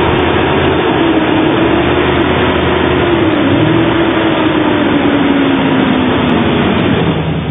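1999 GMC Sierra 1500's 5.3-litre V8 engine running at raised revs, its pitch slowly rising and falling, then easing off near the end.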